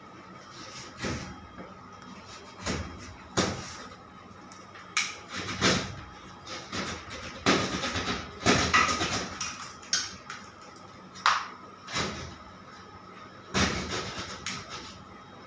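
Irregular knocks, bangs and clatter of hand work with tools and materials, with a quick run of knocks around the middle, over a faint steady high hum.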